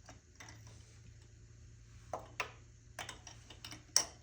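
A few separate light clicks and taps of hand tools, a socket and ratchet, working on a spark plug, the loudest near the end, over a faint steady low hum.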